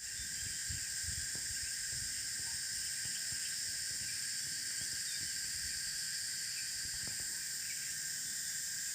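Steady, unbroken insect chorus of several high, shrill, even bands of buzzing with no rise or fall.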